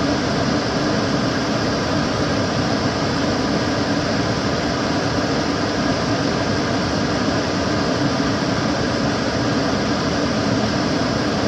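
Kitchen cooker hood extractor fan running steadily: an even rush of air with a low hum.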